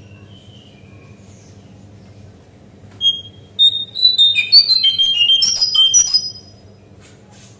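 Jongkangan (brown-chested jungle flycatcher) singing: about three seconds in, a loud, rapid burst of clear, high whistled notes jumping up and down in pitch, lasting about three seconds. A faint steady low hum runs underneath.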